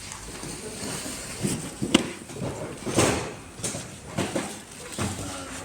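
A handful of irregular knocks and clatters, the loudest about three seconds in.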